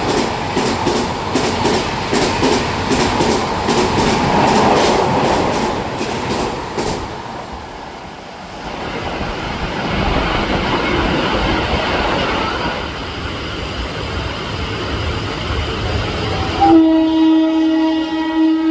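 A passenger train passing at speed, its wheels clattering rhythmically over the rail joints, then a steadier rumble. Near the end an electric locomotive's horn sounds and is held steadily.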